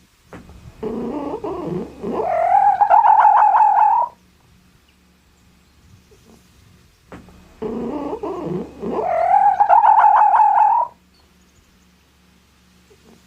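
An animal calling twice in the same way, each call a low rough sound that rises into a drawn-out, wavering cry lasting about two seconds.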